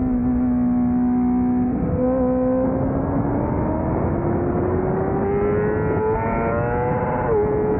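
600cc racing motorcycle engine at a steady note for a couple of seconds, then climbing steadily in pitch as it accelerates hard, with a sudden drop in pitch near the end as it shifts up a gear.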